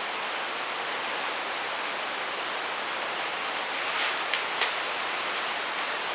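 Steady hiss of wind blowing around the house, with two faint ticks about four seconds in.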